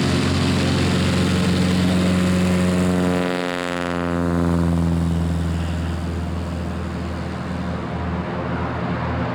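Cessna 182's propeller engine running steadily, with its pitch dropping about three to four seconds in before it runs on a little quieter.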